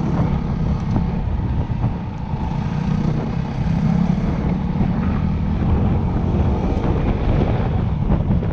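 Yamaha WR250R's single-cylinder four-stroke engine running steadily while riding on a dirt track, heard with wind buffeting the camera's microphone.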